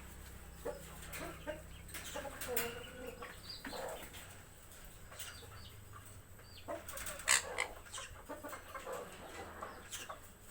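Several birds calling with scattered short calls and squawks, over a steady low hum.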